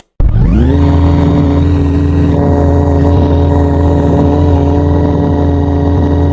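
A loud motor drone that starts abruptly out of silence, rises in pitch over about half a second as it spins up, then holds a steady buzzing hum with many tones.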